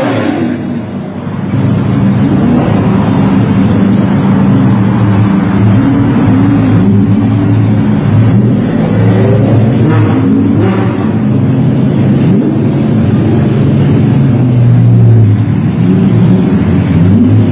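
Loud sports car engines running and revving, their note mostly steady, with a rising rev near the end.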